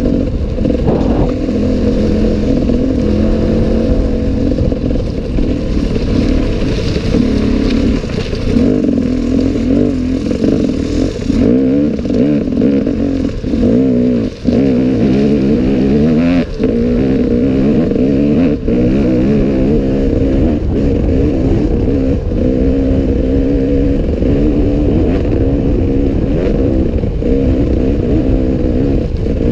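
Enduro motorcycle engine running under load, its pitch rising and falling again and again as the throttle opens and closes. A few short knocks sound over it.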